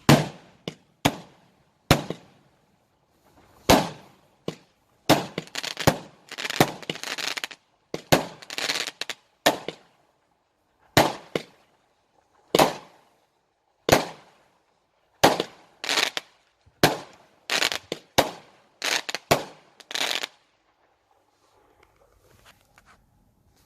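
Consumer fireworks going off in a home display: a run of about twenty sharp bangs at irregular intervals, some packed into dense clusters, stopping about twenty seconds in.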